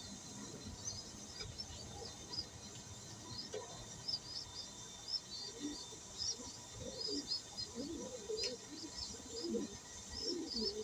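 Pigeon squabs begging with rapid, repeated high-pitched squeaks while a parent pigeon feeds them crop milk. Lower throaty sounds join in from about halfway and grow louder toward the end.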